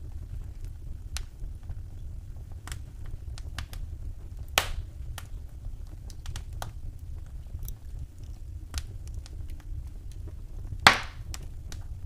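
Wood fire crackling in a fireplace: a steady low rumble of the burning fire under scattered small clicks and ticks. Two sharp, louder pops stand out, one about halfway through and a bigger one near the end.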